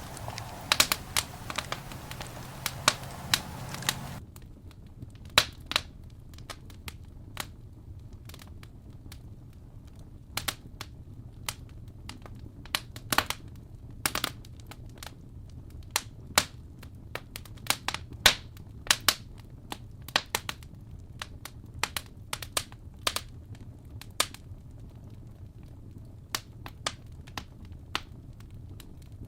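Campfire crackling: burning wood giving off irregular sharp pops and snaps, a few much louder than the rest. A soft hiss under the pops stops abruptly about four seconds in.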